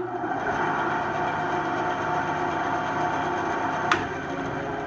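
Electric bandsaw switched on with a click and running steadily with a motor hum. About four seconds in, another click switches it off and it starts to spin down.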